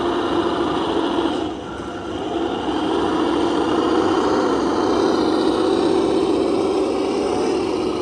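Radio-controlled construction model running: a steady electric motor and gear whine. It dips briefly about a second and a half in, then builds up again and holds.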